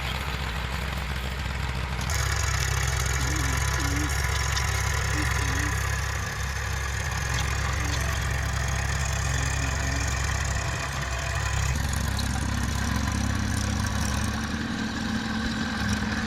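Eicher 480 tractor's diesel engine running steadily, getting louder about two seconds in and changing in tone near twelve seconds.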